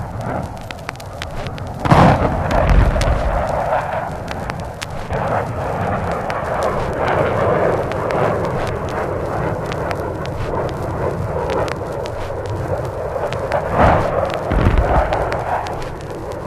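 Two heavy explosions, about two seconds in and again near the end, each followed by a low rolling rumble, with a continuous noisy rumble between them. Vinyl record crackle and pops run throughout.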